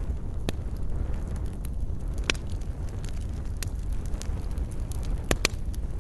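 Wood fire burning with a steady low rumble and scattered sharp crackles and pops, two of the loudest close together near the end.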